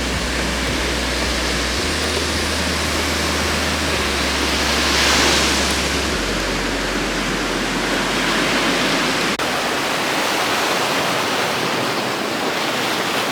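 Ocean surf washing onto a beach: a steady rush of noise that swells louder as a wave comes in about five seconds in.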